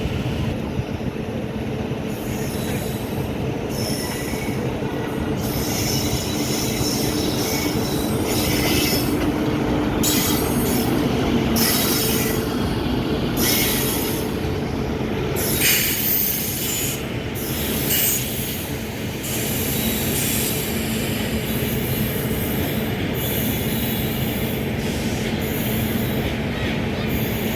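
Indian Railways train rolling past close by: a steady loud rumble of wheels on rails with repeated short high-pitched wheel squeals.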